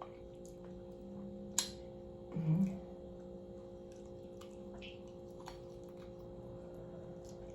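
A person eating a piece of fried chicken: a few faint mouth clicks and a short hummed "mm" about two and a half seconds in, over a steady low electrical hum.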